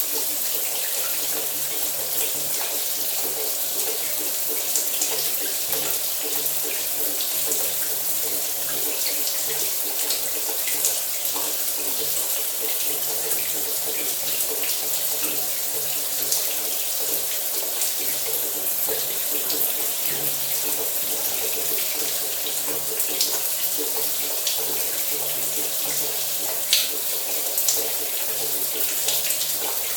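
Shower running: a steady rush of water spray falling, with a few sharper splashes scattered through it.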